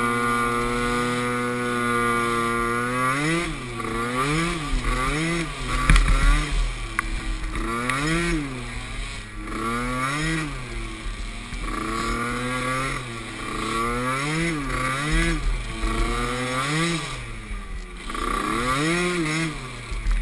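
Small youth ATV engine at race pace: it holds a steady pitch for about three seconds, then revs up and falls back over and over, roughly once a second, as the throttle is worked over rough ground.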